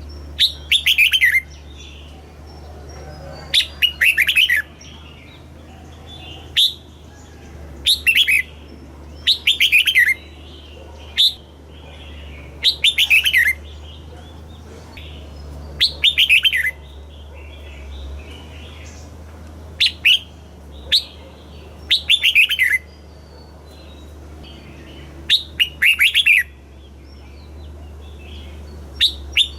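Red-whiskered bulbul singing: short, quick phrases of bright falling whistles, repeated every one to three seconds, over a steady low hum.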